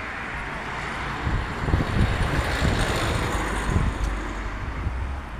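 Passing road traffic: a vehicle's tyre and engine noise swelling through the middle and easing off again, with a low rumble underneath.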